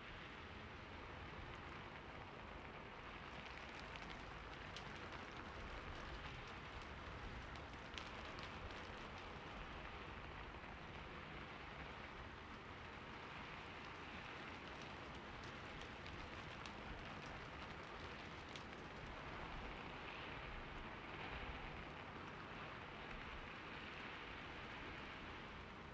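Steady rain falling on a roof, an even patter with scattered sharper drop ticks.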